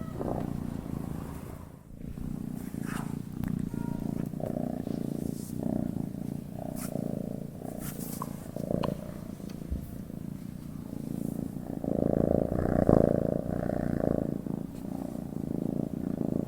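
Domestic cat purring steadily as it sleeps, with a brief dip about two seconds in and a louder stretch about three-quarters of the way through.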